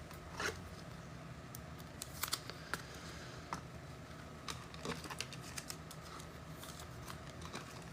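Trading cards being handled: soft, scattered clicks and short slides as cards are flipped through and set down, over a faint low hum.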